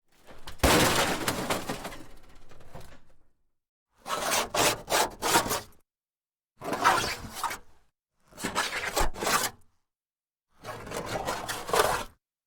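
Impact sound effects: five separate noisy crunching bursts, each one to three seconds long with short silences between, every burst holding several sharp knocks.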